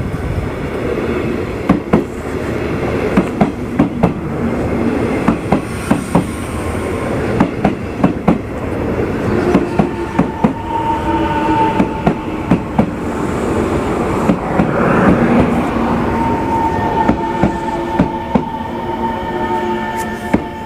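Train rolling past with a rumble, its wheels clacking over rail joints in irregular knocks. About halfway through, a steady high-pitched tone joins in.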